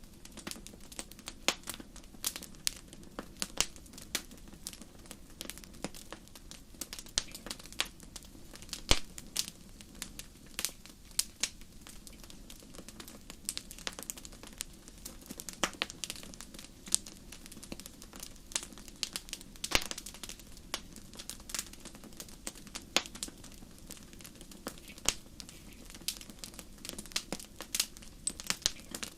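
Wood fire in a fireplace crackling: irregular sharp pops and snaps, some much louder than others, over a steady low rumble of the flames.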